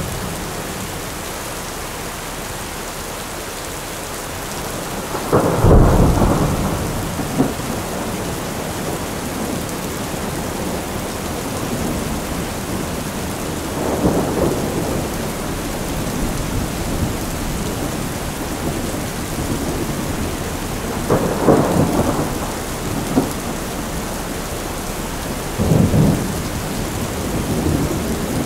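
Steady rain with thunder rumbling four times, the loudest roll about five seconds in and the others spread through the rest.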